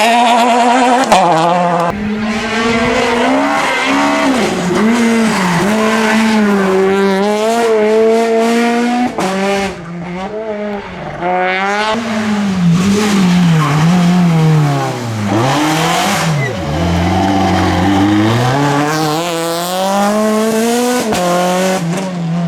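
R2B-class rally car engines revving hard on a stage. The pitch climbs and drops again and again as the drivers run up through the gears, lift and brake for corners.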